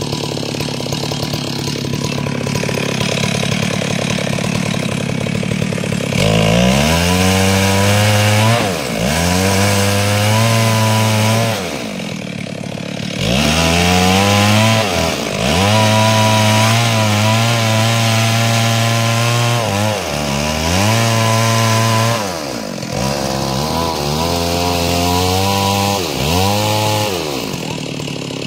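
Stihl two-stroke chainsaw running hard while ripping a log lengthwise into planks. After about six seconds of steady running, the engine note sags under load and climbs back again about six times as the bar works through the cut.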